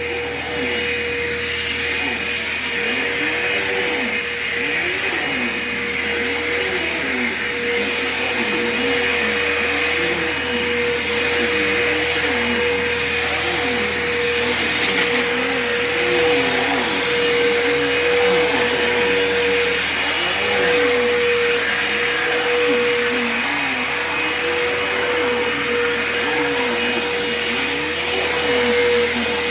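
Bissell PowerForce Turbo upright vacuum cleaner running: a steady motor whine over a lower hum that rises and falls in pitch about once a second as it is worked. A brief sharp click about halfway through.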